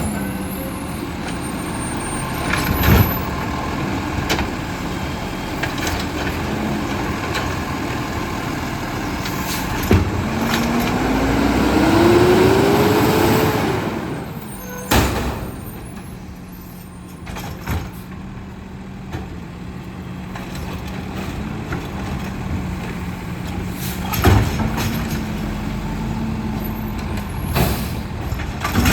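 Garbage truck engine running, revving up and back down for a few seconds around the middle. Several sharp clanks are heard along the way.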